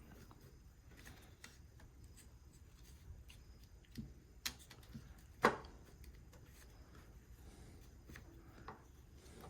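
Small parts of a disassembled hammer drill being handled, with a few short sharp clicks around the middle over otherwise quiet fiddling.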